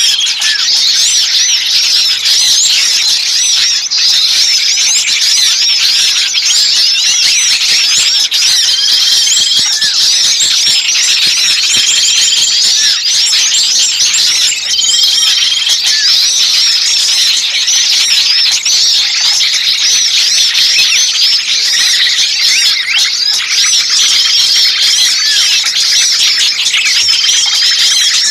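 A dense chorus of many small songbirds calling excitedly, rapid high chirps and trills overlapping without a break, with a short flat whistled note every two to three seconds. It is a bird-lure recording of small birds' agitated, distressed calls, used to draw other birds in.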